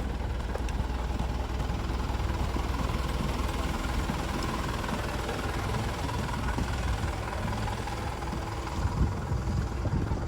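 Vehicle engine and road noise, a steady low rumble heard from inside the vehicle.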